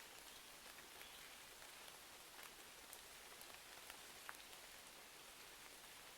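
Faint, steady rain hiss with a few scattered sharp crackles of a wood fire.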